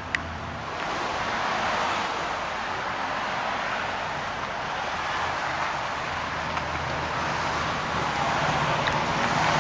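1995 Lexus LS400's 4.0-litre 32-valve V8 idling quietly under a steady rushing noise, with a sharp click right at the start. The low idle note grows louder near the end as the exhaust comes closer.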